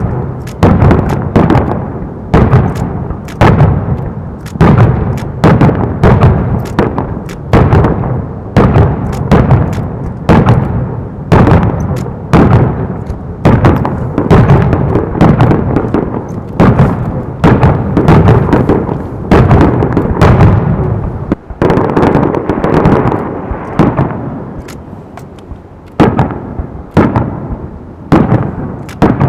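Fireworks bursting in quick succession: a continuous barrage of sharp booms and cracks, each trailing off in a rolling echo, easing off a little past the middle before building again.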